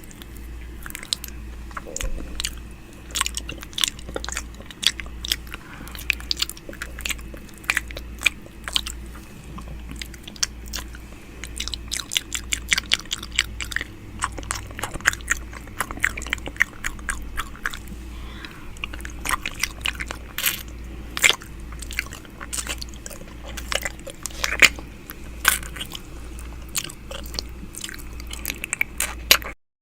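ASMR 'ear eating' mouth sounds: a dense, irregular run of wet clicks, smacks and nibbling sounds, with a low throb pulsing evenly underneath.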